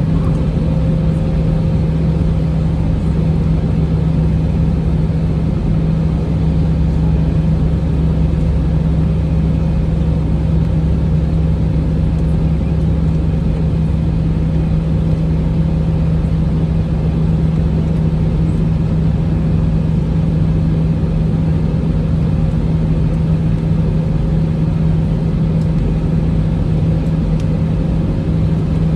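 Airbus A319 airliner's jet engines droning steadily, a constant low hum with airflow noise that holds the same pitch and level throughout.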